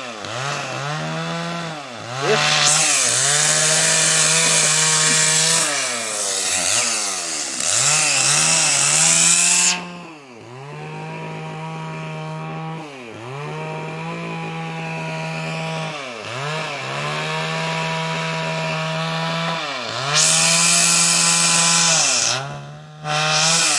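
Two-stroke chainsaw running at high revs, its engine note dropping and picking up again every few seconds. It cuts through wood in two loud stretches, a long one from about two and a half seconds in and a shorter one near the end.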